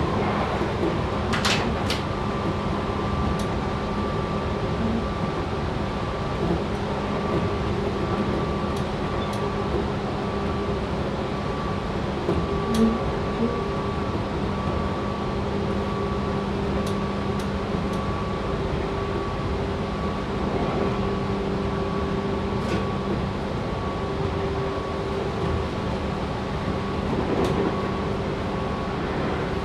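Running noise inside a Tobu 6050 series electric train's motor car (resistance-controlled, TM-63B traction motors) at steady speed: the rolling rumble of the train with a steady hum whose pitch does not change, and a few sharp clicks.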